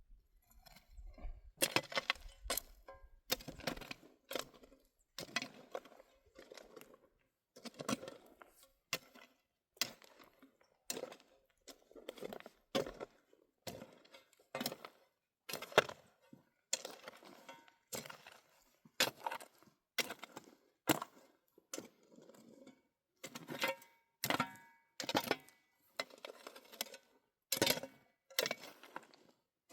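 A metal hand tool striking stony ground over and over, about one strike a second, with a little scraping between strikes; some strikes ring briefly like metal on rock.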